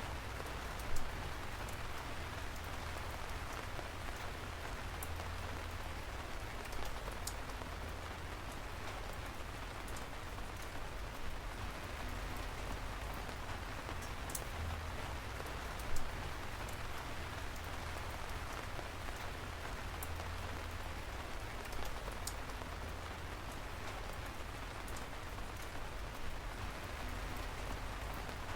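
Steady rain falling, a continuous hiss with scattered sharp drop ticks and a low rumble underneath. Two louder single drops or drips land about a second in and again about halfway through.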